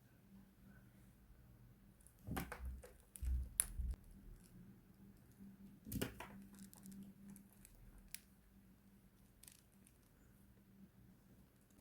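A few light taps and clicks in two short clusters, about two seconds in and again about six seconds in, over a faint steady room hum.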